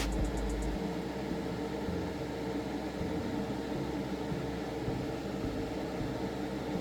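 Steady mechanical hum with a low drone, and a few faint ticks in the first second.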